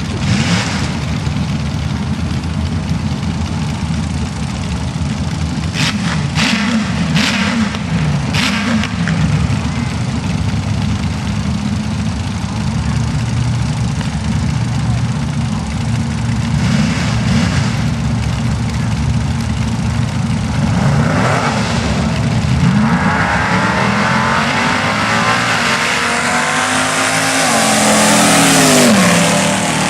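Front-engine dragster's engine running with the throttle blipped, its pitch swinging up and down, with a few sharp cracks about a quarter of the way in. Near the end it revs up to its loudest, then falls in pitch.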